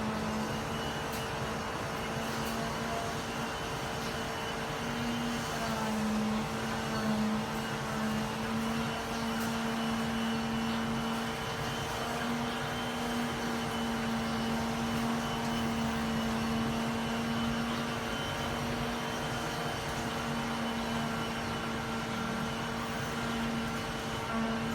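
A steady low machine-like hum with a constant background noise, unchanging throughout.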